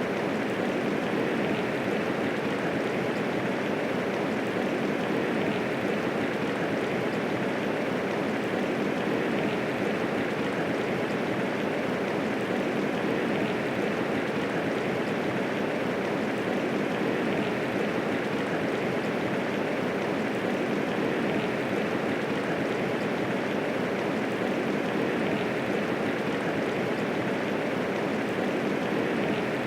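Steady medium rainfall, an even hiss of rain falling with no thunder.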